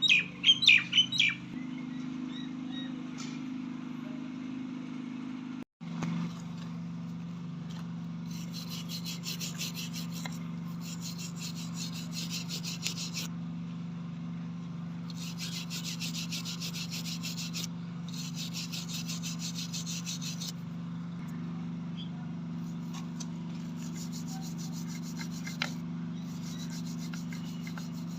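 Rusty metal being rubbed down by hand with sandpaper or a file in three runs of quick back-and-forth rasping strokes, each several seconds long, over a steady low hum. A few short, sharp chirps come right at the start.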